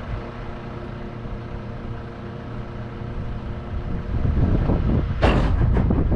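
HGV diesel engine idling steadily, joined by wind buffeting the microphone from about four seconds in and a single sharp clack a little after five seconds.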